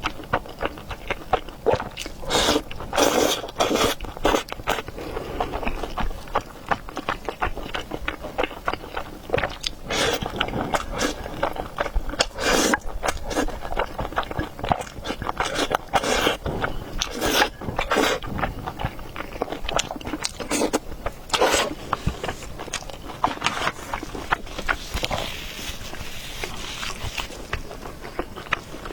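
Close-miked eating sounds: biting and chewing food, with irregular short noisy bursts and scrapes throughout.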